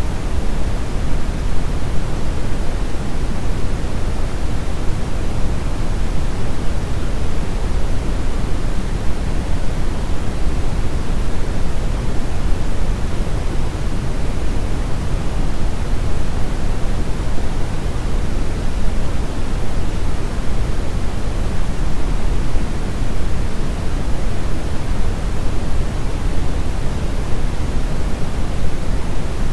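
Brown noise: a steady, deep rushing hiss, heaviest in the low end, unchanging throughout.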